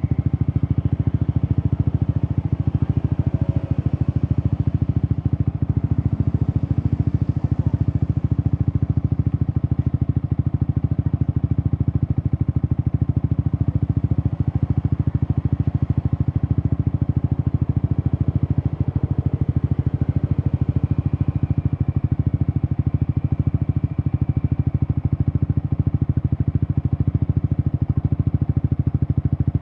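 Yamaha XSR 155 single-cylinder engine running through an Akrapovic exhaust at a steady, unchanging engine speed, a dense, even low pulsing with no revs rising or falling.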